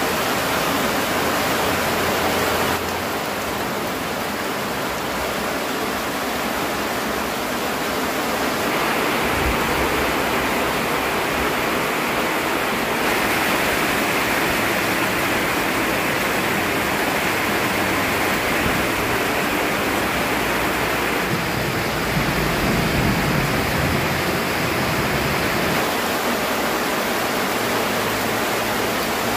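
Heavy rain falling on a corrugated metal roof and pouring off its edge: a loud, steady, dense hiss that shifts in tone a few times.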